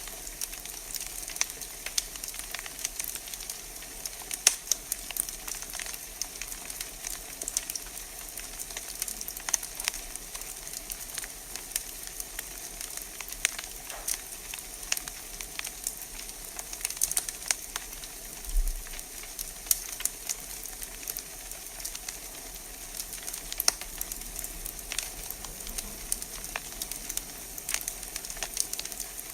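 Wood fire burning in a fireplace, crackling and popping with many irregular sharp snaps over a steady hiss.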